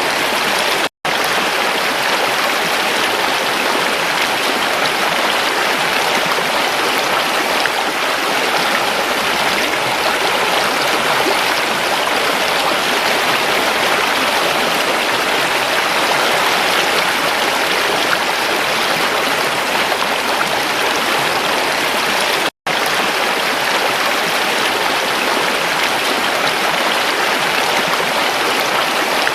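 A creek flowing steadily over rocks, an even rushing and babbling of water. The sound drops out for an instant twice, about a second in and again about three-quarters of the way through.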